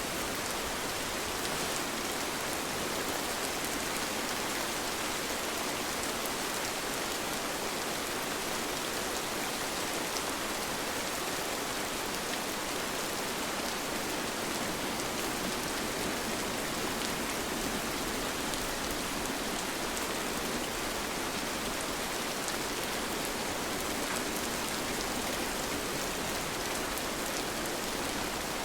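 Steady rain: an even hiss of many drops falling, with faint taps of single drops scattered through it.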